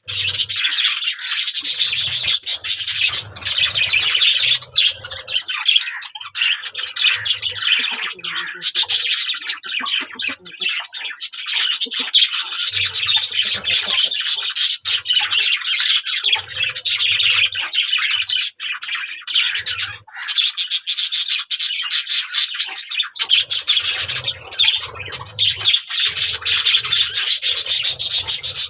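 Many small birds chirping and squawking at once, a dense continuous chatter with no pauses.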